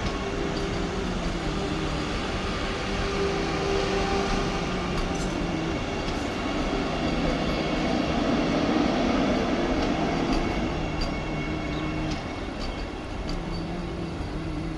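Vande Bharat Express electric multiple-unit train running: a steady rumble of running noise with a low hum and a few faint clicks.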